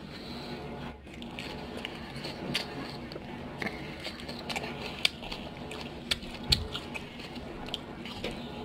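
Close-up chewing and wet mouth sounds of someone eating a shrimp spring roll, with scattered small clicks.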